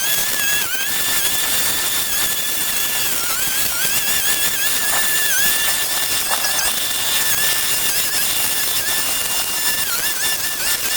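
A motor running with a steady high-pitched whine over a loud hiss, its pitch dipping briefly several times.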